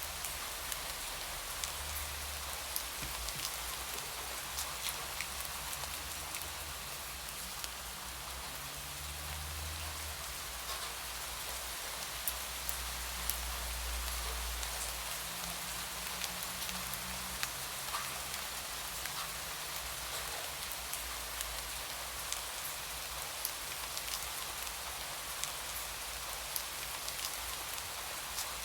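Steady rain, with many separate drop hits ticking through the hiss, and a low rumble that swells a few times.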